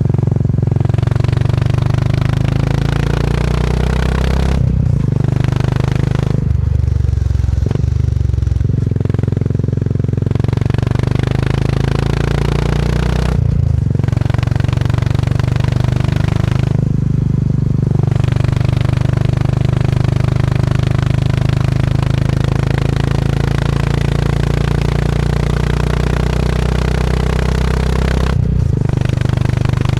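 Motorcycle engine running steadily under way. Its note drops back briefly several times: around five, seven, fourteen, seventeen and twenty-eight seconds in.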